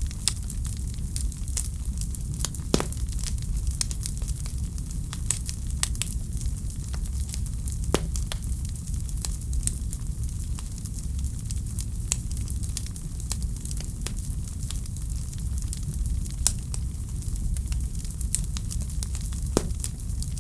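Wood fire in a fireplace crackling steadily, with many small snaps over a low, even rumble. Louder pops come about three seconds in, around eight seconds, and near the end.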